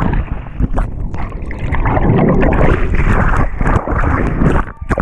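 Loud rushing, crackling noise of wind buffeting the camera microphone and water churning during a jump into water.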